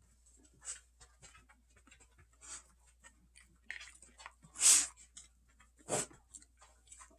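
A person eating a mouthful of broccoli salad: soft chewing and mouth clicks with a few short breaths out through the nose, the loudest about the middle.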